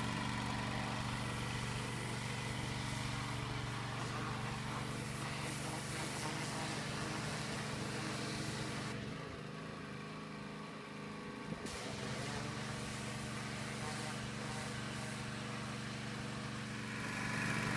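A motor engine idling steadily with a low, even hum. The hum dips for a few seconds partway through, then returns.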